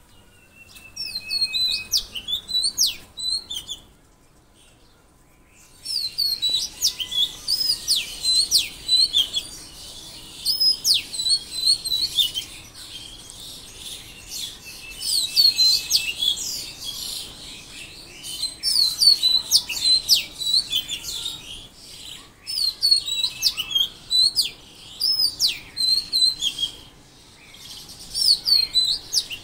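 Birds chirping: many short, quick, overlapping calls and whistles, with a brief lull a few seconds in before the chorus resumes and carries on steadily.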